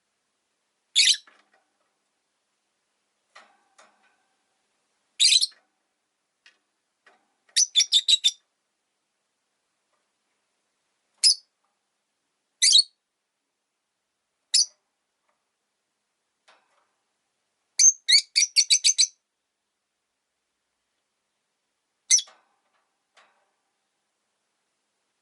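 Rosy-faced lovebirds giving sharp, high chirps, mostly single calls a few seconds apart, with two quick runs of several chirps, one about eight seconds in and a longer one about eighteen seconds in.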